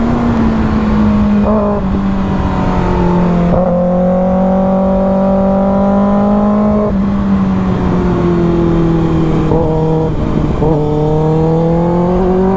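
Superbike engine running hard at high revs without pause, its pitch dipping and climbing again several times.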